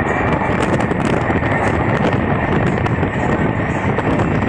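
Passenger train running at speed, heard from aboard: a steady rumble of wheels on the rails, with wind on the microphone.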